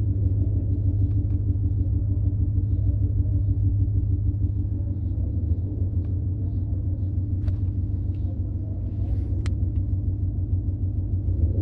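Ford V8 engine idling with a steady low rumble.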